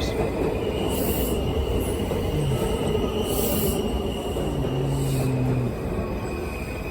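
MARC commuter train rolling in, led by a cab car with an MP36 diesel locomotive pushing at the rear: a steady rumble of wheels on rail with a thin, high wheel squeal throughout and three short hissing bursts.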